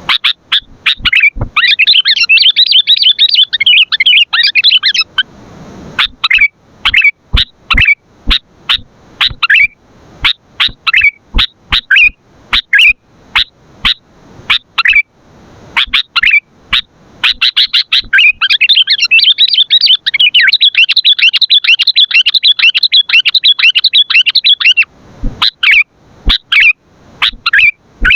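Sooty-headed bulbul (kutilang) calling loudly: sharp separate chirps about one a second, broken by two long runs of rapid chattering, one a couple of seconds in and a longer one past the middle.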